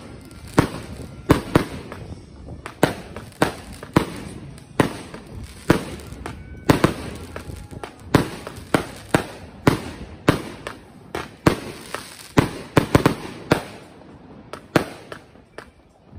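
Consumer firework cakes firing shot after shot: a rapid, irregular string of sharp launch thumps and bursting breaks, about two a second, thinning out near the end. Strong wind rumbles on the microphone underneath.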